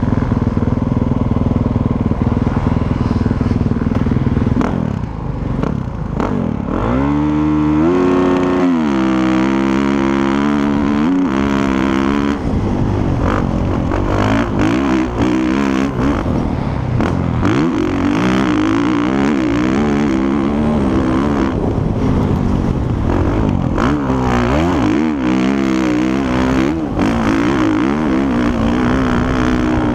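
Motocross motorcycle engines revving hard, their pitch repeatedly climbing and dropping as the bikes accelerate and shift gears, with more than one bike heard at once in the second half.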